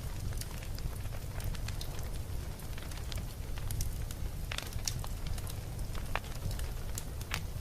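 Wood campfire burning: a steady low rumble with irregular crackles and pops, a few sharper pops in the second half.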